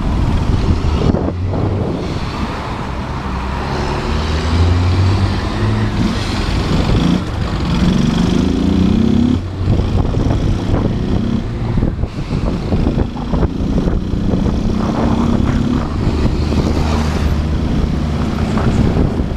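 Motorcycle engine pulling under acceleration, its pitch climbing and dropping back at gear changes, notably about halfway through, over wind and road noise.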